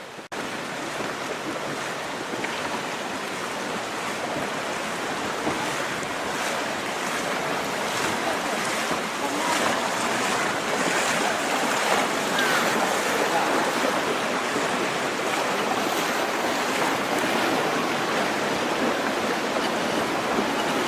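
Steady rush of flowing water, growing slightly louder.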